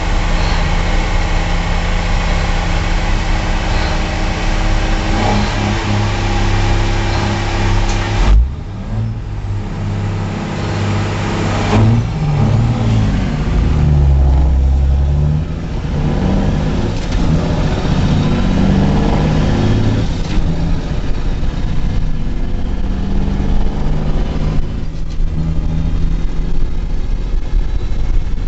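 Truck engine running with a steady low note. About eight seconds in it changes suddenly with a brief loud thump, then it revs up and down several times before settling into a steady run again.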